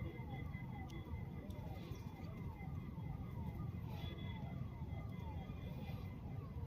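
A bird repeating a short falling whistled note, a little over two a second, in an even run, over a steady low rumble.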